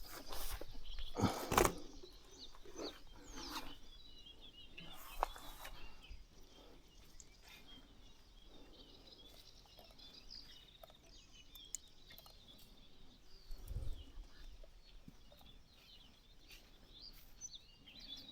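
Small birds chirping and twittering in short high calls, with a few knocks in the first couple of seconds and a low thud a little after the middle.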